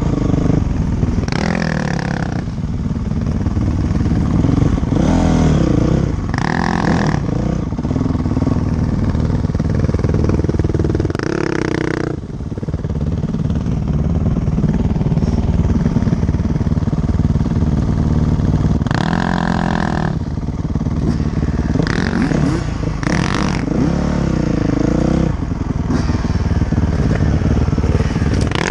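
Dirt bike engine running continuously, with about eight brief bursts where it revs higher.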